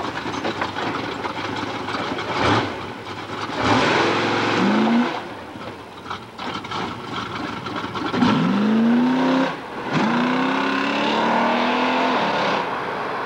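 Car engine accelerating hard, its pitch climbing in several pulls with a brief break about ten seconds in, as at a gear change. Two loud rushes of noise come between two and four seconds in.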